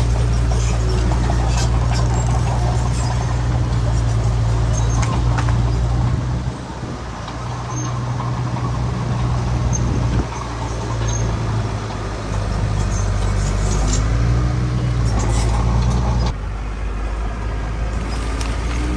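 Heavy diesel engine of earthmoving machinery running steadily with a deep drone and scattered clanks. The sound drops sharply in level a few times.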